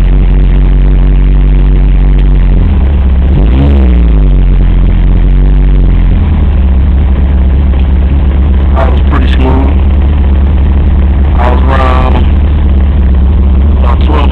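Honda Prelude drag car's engine running just after a startup, loud and distorted on the microphone, with a short rev about four seconds in.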